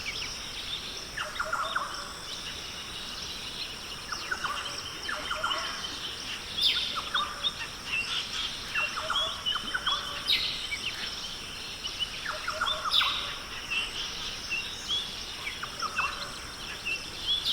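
Rainforest ambience: many birds giving short chirps and trilling calls, spread through the whole stretch over a steady high-pitched hum.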